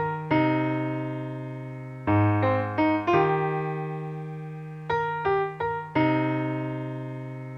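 Slow solo piano music: held chords that slowly die away, with short runs of quicker notes in between.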